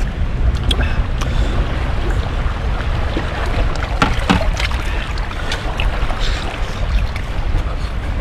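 Wind buffeting the microphone with a steady low rumble, and scattered small clicks and knocks, the strongest about four seconds in.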